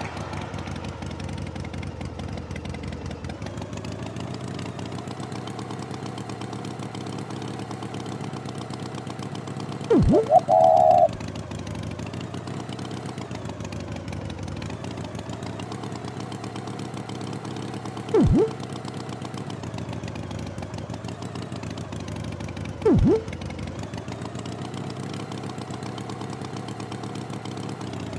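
Tractor engine running steadily, its pitch wavering slowly up and down. Three short, loud sounds with a quickly falling pitch break in, about ten, eighteen and twenty-three seconds in.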